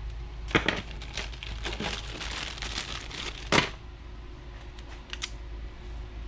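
Crinkly sheet material being crumpled and handled in a run of short rustling bursts, loudest about half a second in and again at three and a half seconds, followed by a few light clicks.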